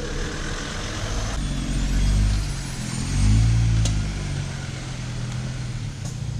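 Jeep Wrangler engine working at crawling speed over a rocky trail, the throttle swelling and easing twice, with a single sharp click or knock near the middle.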